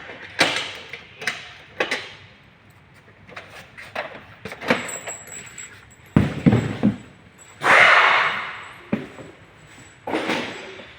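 Irregular metallic clanks and knocks of tools and engine parts being handled, some ringing briefly, with a few heavier thuds past the middle and a short hiss-like burst near eight seconds in.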